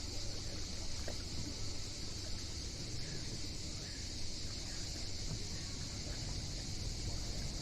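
Summer seaside ambience of sea waves with wind rumbling on the microphone, under a steady high-pitched hiss.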